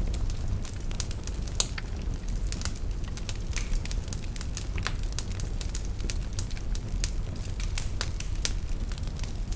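Wood fire burning in a fireplace: a steady low rumble of the flames with frequent irregular crackles and pops, one sharper pop about a second and a half in.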